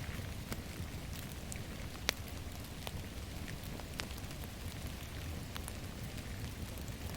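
Steady rain falling, with scattered sharp drop ticks and one louder tick about two seconds in.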